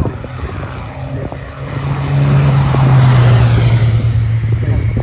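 A racing truck's turbo diesel engine passing at speed under full power. It grows loud and is loudest about three seconds in, then its pitch drops as it goes by.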